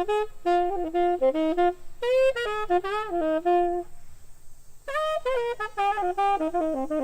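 Unaccompanied saxophone playing a quick jazz line in short phrases of rapid notes, breaking off for about a second midway before starting a new phrase.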